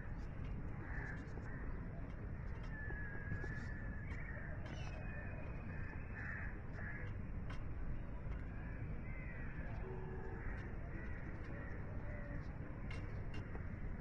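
Short bird calls and chirps scattered throughout, over a steady low background rumble of outdoor noise.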